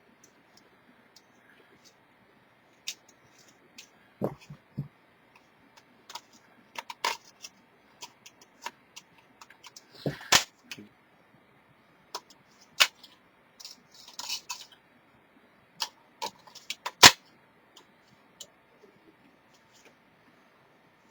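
Scattered small clicks, taps and knocks of plastic parts being handled and fitted together on a workbench, irregular and a few per second at most, with the loudest knock near the end.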